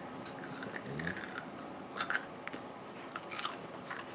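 A person chewing popcorn with soft crunches, and a few sharper crunches in the second half.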